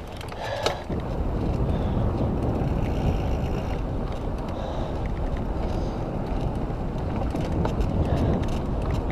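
Mountain bike riding along a dirt trail: a steady low rumble of wind on the microphone and tyres over the ground, with a sharp click about half a second in.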